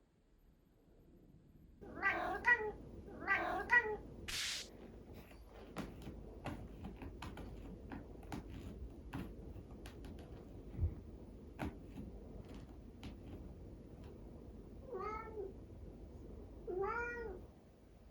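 Minuet cat meowing in short, rising-and-falling calls: a quick run of meows about two seconds in, then two more near the end. A short hissing burst follows the first meows, and faint taps and clicks fill the gap between.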